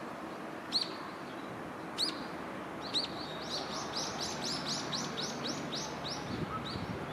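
A small bird calling: three separate sharp, high chirps, then a quick run of repeated chirps at about five a second that slows and stops near the end, over steady outdoor background noise.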